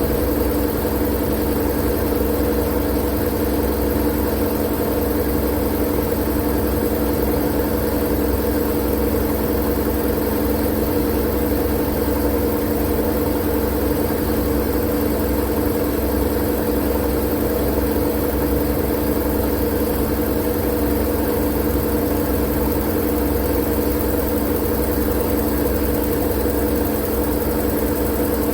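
Steady mechanical drone used as white noise: a low hum with a few steady tones and a hiss above them, unchanging in level and pitch.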